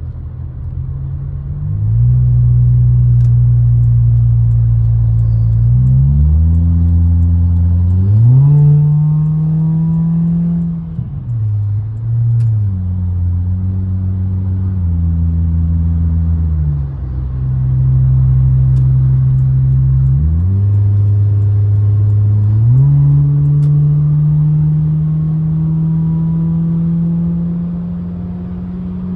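Honda Accord's four-cylinder engine, fitted with an aftermarket catback exhaust, pulling the car along on a drive. The engine note steps up and down in pitch several times, as with changes of speed and gear, and climbs slowly near the end.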